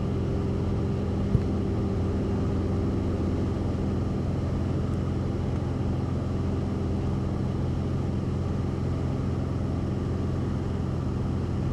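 Cessna 172RG's four-cylinder Lycoming engine and constant-speed propeller droning steadily in the cabin at level cruise power, set to about 25 inches of manifold pressure. One brief click about a second in.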